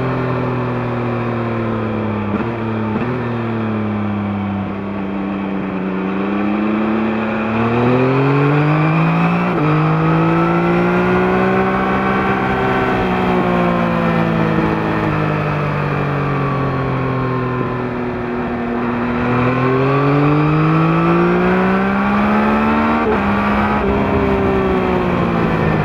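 2021 Yamaha MT-09's 890 cc CP3 inline-three engine through its stock exhaust, heard from under the seat while riding. The revs rise and fall several times, climbing quickly twice (about eight and twenty seconds in) with sudden jumps in pitch at gear changes, then easing off.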